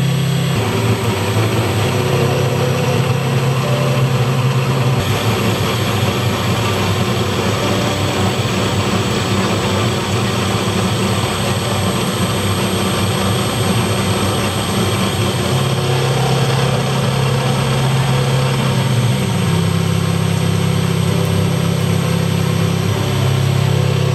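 Heavy machinery running: a loud, steady mechanical noise with a strong low hum, shifting in character a few times.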